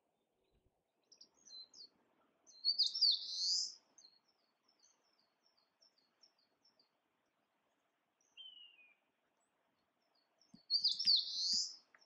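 Songbird singing: a loud, high, rapid phrase about three seconds in and again near the end, with a run of short high notes and a single falling note between them.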